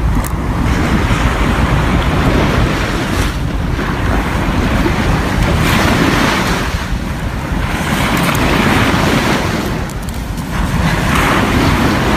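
Loud, steady rushing noise that swells and eases every two to three seconds, with no voices over it.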